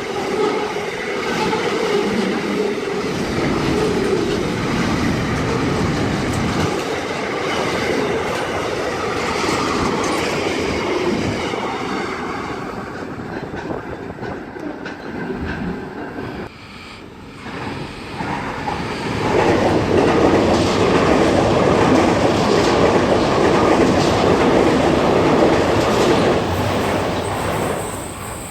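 Trains passing at high speed, with a loud, steady rush of wheel and rail noise. The noise drops sharply about two-thirds of the way through, then comes back loud for a second pass that falls away near the end.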